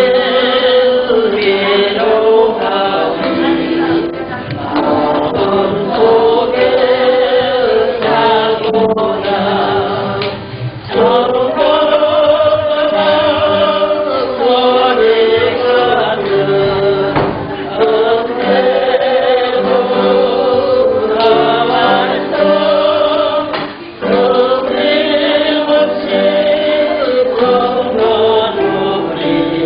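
Church choir singing a Korean hymn, several voices together in slow phrases of long held notes, with short breaths between phrases about eleven and twenty-four seconds in.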